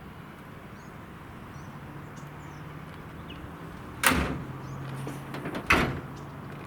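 Two loud knocks about a second and a half apart, over a steady low hum.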